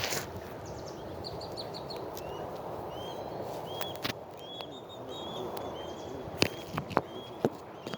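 A bird repeating a short, down-curving chirp about twice a second over steady background noise, with a few sharp clicks near the end.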